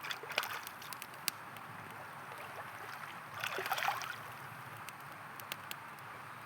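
Steady rushing flow of a river, with the sharp pops and crackles of a burning campfire scattered through it. There are two louder swells of rushing sound, one at the start and a stronger one about three and a half seconds in.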